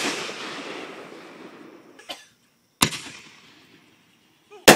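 Consumer fireworks exploding: a sharp bang near three seconds in and another right at the end, each followed by a long rolling echo, with a small pop about two seconds in.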